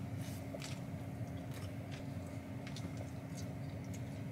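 Quiet eating sounds: chewing and licking dressing off fingers, with a few faint scattered mouth clicks, over a steady low hum in a car's cabin.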